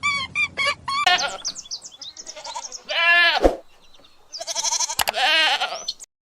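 Goat bleating: one short bleat that drops in pitch about three seconds in, then a longer quavering bleat near the end. It is preceded by about a second of quick, evenly spaced short calls.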